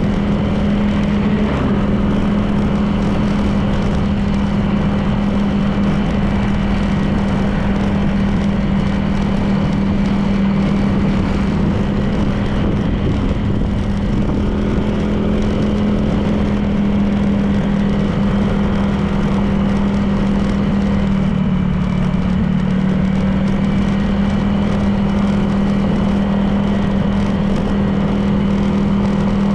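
Honda PCX 160 scooter's single-cylinder engine running at a steady cruising speed, its tone dipping slightly and recovering a little past two-thirds of the way through, over constant wind and tyre noise.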